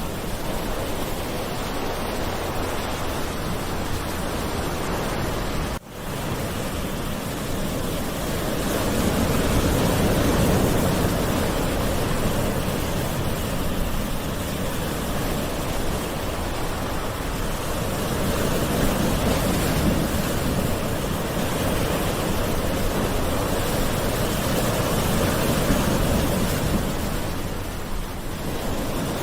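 Gentle sea waves washing in, a continuous surf hiss that swells and eases slowly. There is a brief dropout about six seconds in.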